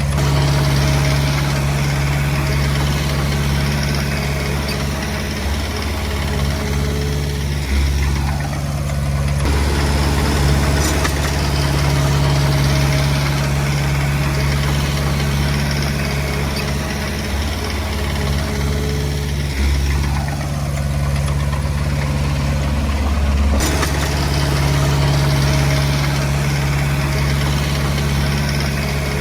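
Komatsu D20P bulldozer's diesel engine running steadily under work, its note shifting twice.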